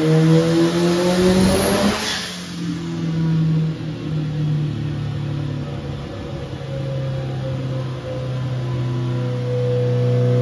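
Turbocharged Mazda FE four-cylinder engine revving, its pitch climbing for about two seconds. A rush of hiss comes as it lets off, and then the engine runs on at a steadier, lower pitch.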